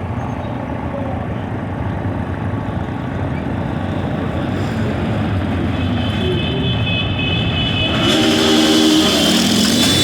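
Copa Truck racing truck engines running on the circuit. The sound grows louder as trucks approach, with a rising whine coming in about six seconds in and a sudden loud surge about eight seconds in.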